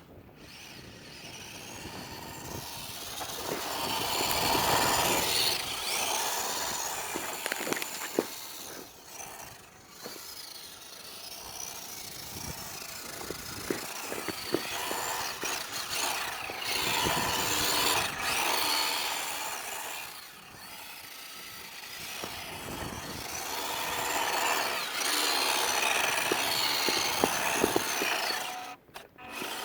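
WPL D12 1/10-scale RC drift truck's electric motor and gears whining, rising and falling in pitch as it speeds up and slows down over several runs.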